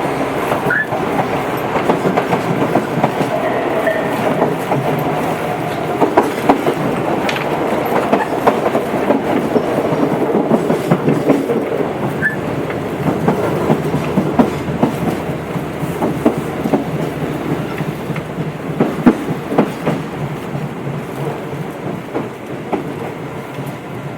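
Tobu 8000 series electric train heard from on board while running, with the steady rumble of the wheels and repeated clicks over rail joints, and a few brief high wheel squeals. The sound grows quieter towards the end as the train slows.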